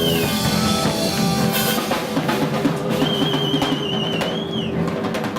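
Live blues-rock band playing, with the drum kit pounding out dense hits and cymbals. About three seconds in, a high lead note bends up and is held with vibrato, then falls away.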